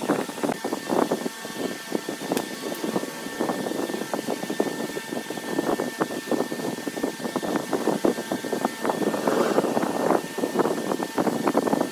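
Wood lathe running while a hand tool cuts into the spinning wood: a dense, rough scraping full of irregular clicks and knocks, with a faint steady motor whine underneath.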